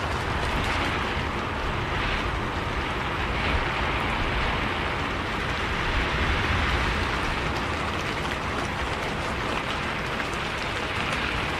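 Rain falling on a moving bus, a steady hiss of drops with the low, even rumble of the bus and road beneath it.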